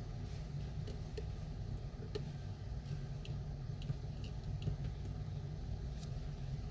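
A steady low background rumble with a dozen or so light, irregular clicks and ticks scattered through it.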